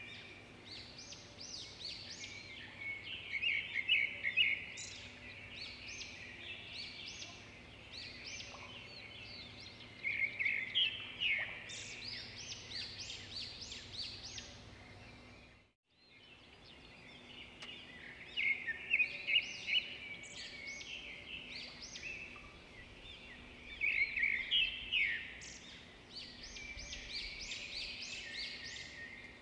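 Small birds chirping and twittering in bursts over a faint steady hum, cutting out for a moment about halfway through.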